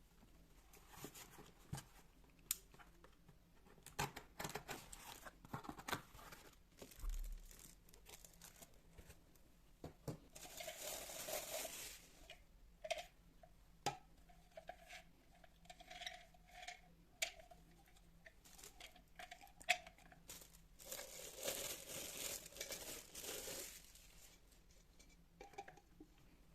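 Household handling sounds: scattered clicks and light knocks with rustling, and two stretches of hissing noise, the longer one near the end.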